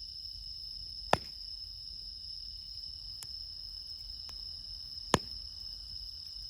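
Campfire wood crackling with two sharp pops, one about a second in and one near the end, and a few fainter ticks, over a steady high chorus of crickets and other autumn insects.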